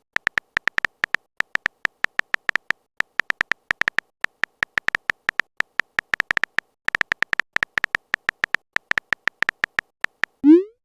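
Phone keyboard typing sound effect: rapid, irregular short clicks, several a second, like keys tapped while a message is written.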